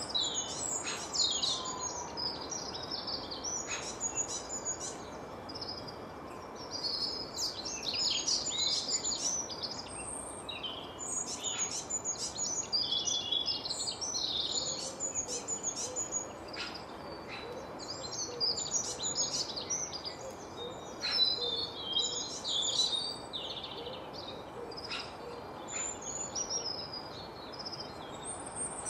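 Small birds chirping and singing, many short high calls overlapping throughout, with a few faint clicks.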